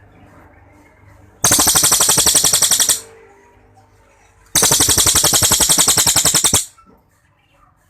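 A cililin songbird giving two long, rapid rattling trills, the 'long shot' song, each about one and a half to two seconds of fast, even, high-pitched notes, the second starting about a second and a half after the first ends.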